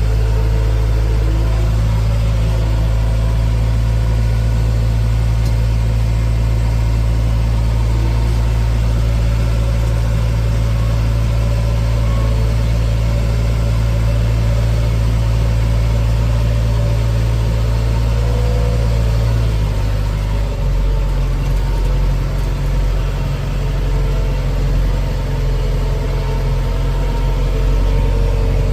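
Diesel engine of heavy farm or earthmoving machinery running steadily, its note shifting about twenty seconds in.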